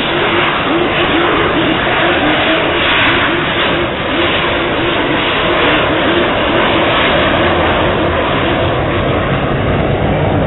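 Aircraft engine noise from a plane in flight, loud and steady, with a wavering drone.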